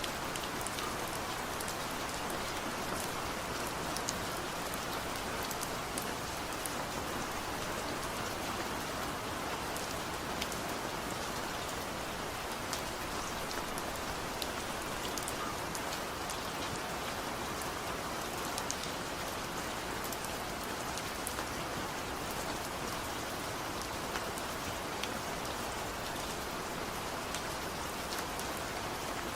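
Steady gentle rain falling, an even hiss of rain on surfaces with scattered individual drop ticks and no thunder.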